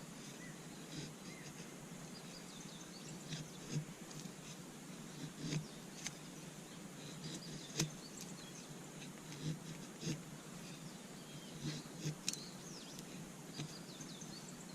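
Wood campfire crackling: irregular sharp pops and snaps over a steady background hiss. Faint short bird chirps come and go, a few of them together about twelve seconds in.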